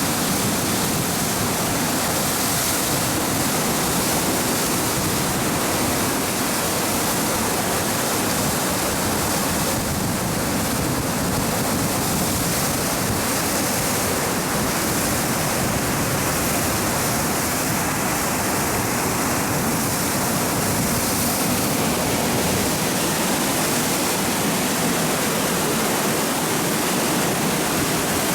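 Steady, even rushing of the flooded Mukogawa river in spate under the station bridge, swollen by typhoon rains.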